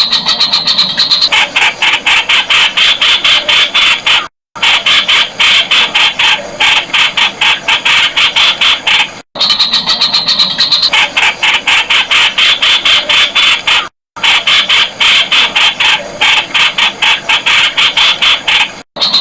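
Streak-eared bulbul calling: a loud, rapid series of sharp, harsh notes repeated many times a second. It comes in stretches of about five seconds, each broken by a brief dead drop-out.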